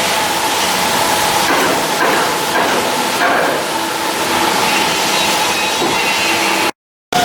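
Steady loud noise of shipyard work, a dense hiss with irregular metallic clatter and faint whining tones; it cuts off abruptly for a split second near the end, then carries on.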